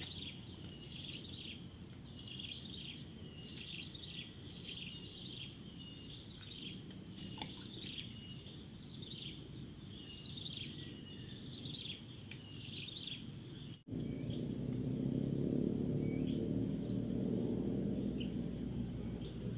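A bird calling over and over, a quick series of short downward-slurred notes, roughly one or two a second. About fourteen seconds in, the sound breaks off. A louder low rushing noise then takes over, and only a few scattered notes come through.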